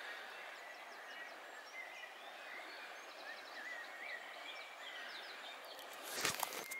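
Faint birdsong in woodland beside a river: many short chirps and warbling phrases over a steady soft hiss. A brief knock or rustle about six seconds in.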